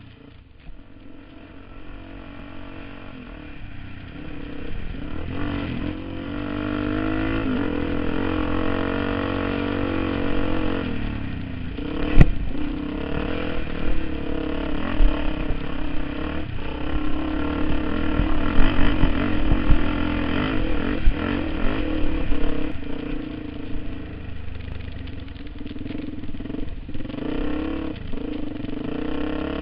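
Off-road dirt bike engine running and revving, its pitch rising and falling, getting louder over the first several seconds. A single sharp knock comes about twelve seconds in.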